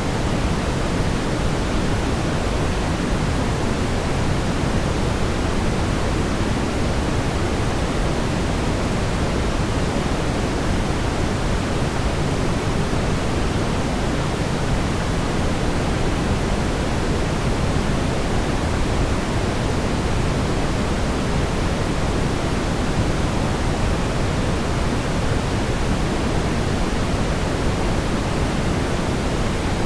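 Steady brown noise: an even, deep rumbling hiss, strongest in the low end, with no change.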